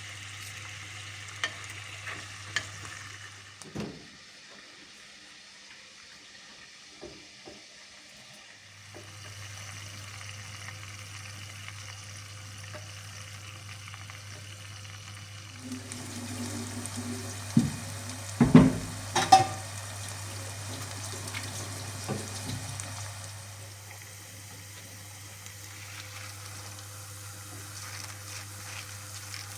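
Food sizzling as it fries in hot oil in a pan, with a utensil stirring through it. A few loud sharp knocks of the utensil against the pan come about two-thirds of the way through, over a steady low hum.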